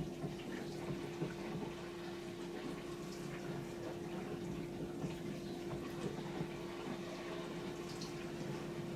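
Bosch SKS60E02GB compact dishwasher running a wash cycle: a steady hum under water spraying and splashing inside the tub, with scattered light ticks.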